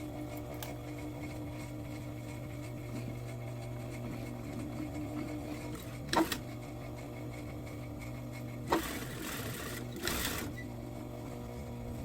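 Sewing machine running steadily, stitching a seam on a pair of slacks. There is a sharp click about six seconds in and a brief rustle about nine seconds in.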